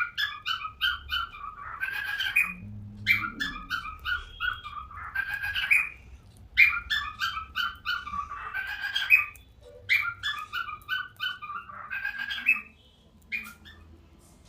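Budgerigar calling: four long bouts of quick, evenly repeated chirps, each ending in a harsher scratchy chatter, then a short chirp near the end.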